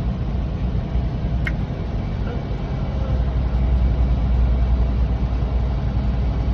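Semi truck's engine and road noise heard inside the cab while driving: a steady low drone that swells a little around the middle.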